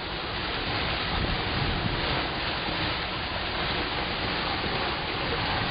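Steady rush of wind and water on a sailboat under sail, with wind buffeting the microphone.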